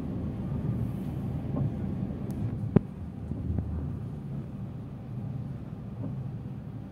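Passenger train coach rolling slowly out of a station, heard from inside: a steady low rumble, with one sharp click a little under three seconds in.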